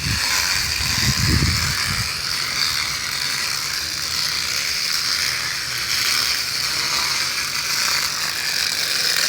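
Bicycle wheel spokes flicking a plastic water bottle wedged against them, a fast steady ratcheting clatter that imitates a motorcycle engine. A short low rumble comes about a second in.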